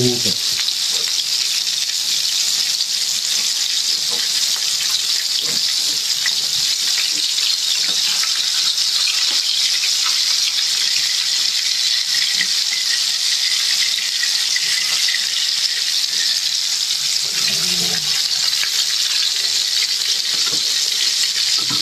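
Pieces of perkasam (fermented fish) deep-frying in hot oil in a wok: a steady, even sizzle.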